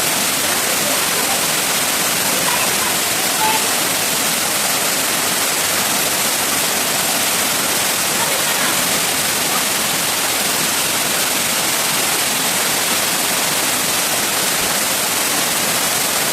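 Loud, steady rush of flowing water, even and unbroken throughout.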